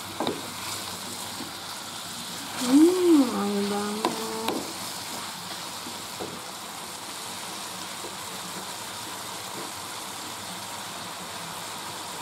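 Sliced bitter gourd sizzling steadily in a frying pan as it is stir-fried with a wooden spatula, with a couple of short knocks. About three seconds in, a loud pitched sound rises and falls, then holds a low steady note for about a second.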